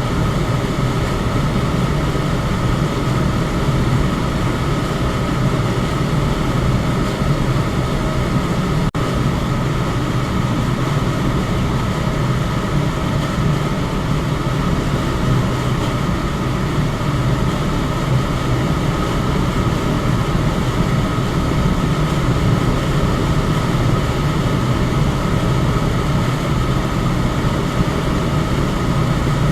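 Electric fan running steadily: an even rush of air, heaviest in the low range, with a faint steady hum on top. The sound cuts out for an instant about nine seconds in.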